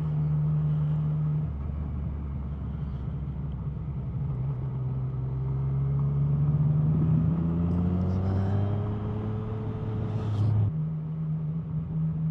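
Suzuki GSX650F motorcycle's inline-four engine under way, with wind rush. The engine note drops about a second and a half in, climbs steadily as the bike accelerates, then steps back up near the end.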